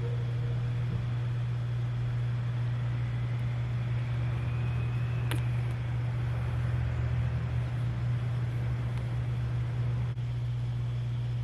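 Steady low hum, unbroken throughout, with a single sharp click about five seconds in.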